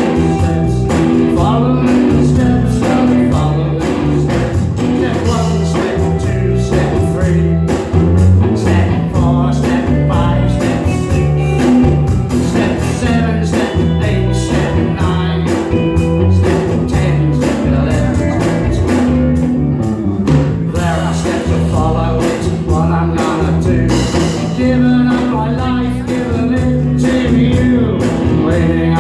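Rock band playing live: electric guitars, bass guitar and a drum kit keeping a steady beat.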